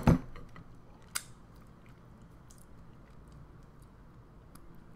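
A sharp clatter at the start as the glass bowl and knife are set down, with a smaller click about a second in. Then quiet chewing and finger-licking of the hardened chocolate-coated banana.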